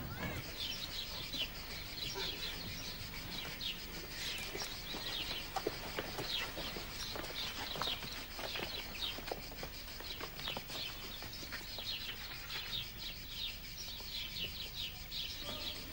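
Small birds chirping, many short quick falling chirps one after another, with a few faint clicks.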